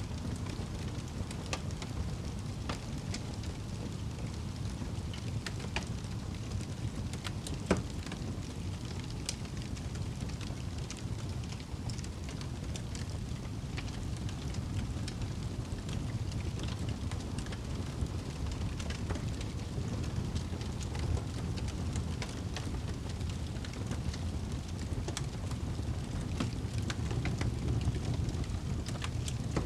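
Wood fire burning in a fireplace: a steady low roar of flames with scattered sharp crackles and pops, one louder pop about 8 seconds in.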